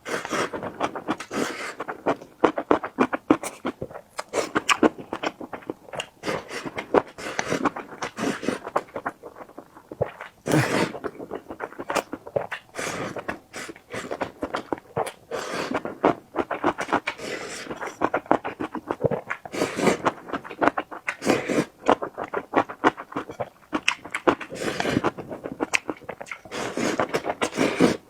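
Close-miked eating sounds: wet chewing and mouth smacks, a dense stream of small clicks and crackles with a few louder bursts.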